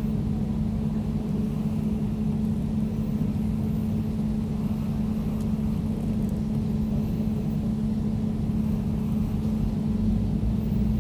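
Air conditioner running steadily: a constant hum with a low rumble and airy hiss beneath it.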